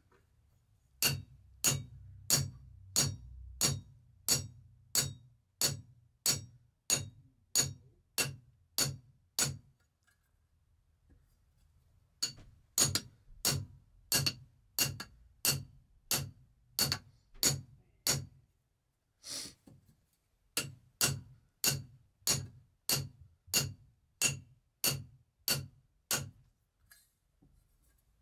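A dull diamond tile saw blade is being struck hard on its rim with a metal hand tool, about two blows a second, and each blow rings out. This 'pinging' flattens and disturbs the edge metal to expose fresh diamonds. The blows come in three runs, with short pauses between them.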